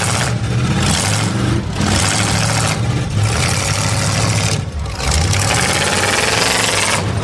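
Demolition derby cars' engines running hard as the cars push against each other, a loud continuous engine noise that dips briefly a few times.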